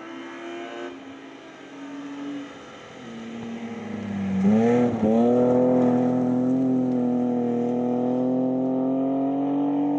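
BMW E36 3 Series rally car engine. It is quieter at first, its note falling off as the car approaches, then dips briefly about four and a half seconds in. It then turns loud and holds a high, steady, slowly rising note as the car passes close by and pulls away.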